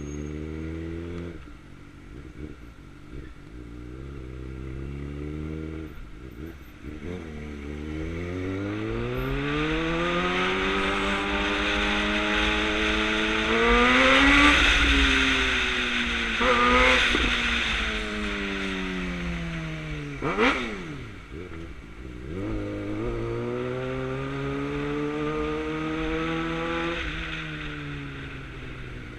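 2009 Suzuki GSX-R600's inline-four engine under way, its pitch climbing steadily to a high-revving peak about halfway through, then easing off and falling. There is a quick sharp rev blip a few seconds later, and then the engine pulls up again and holds.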